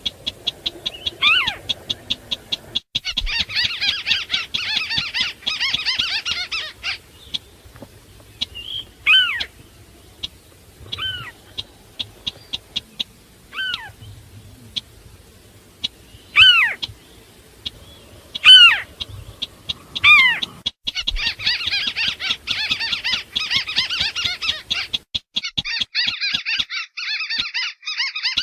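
Recorded calls of marsh rails, the white-browed crake and the sintar beker, played as a bird lure. Bouts of fast chattering alternate with single sharp downward-sliding notes every second or two, over a quick run of short ticks.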